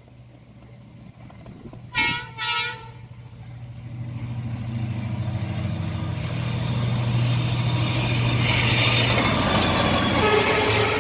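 A D19E diesel-electric locomotive gives two short toots on its horn, then approaches. Its engine drone and the wheel-and-rail noise grow steadily louder as the train draws near.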